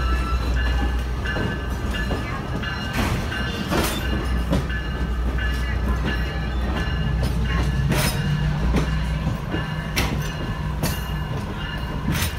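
Diesel-hauled excursion train rolling along the track, heard from on board: a steady low rumble with several sharp, irregular clacks from the wheels and cars.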